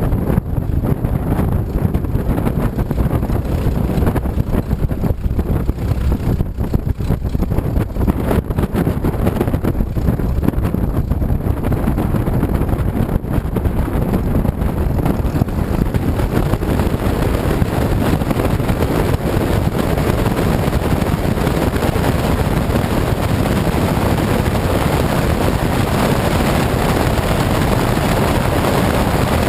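Light single-engine propeller aircraft on its takeoff run: engine and propeller noise with rushing wind buffeting the microphone of a camera mounted under the wing. The sound gets hissier from about halfway through.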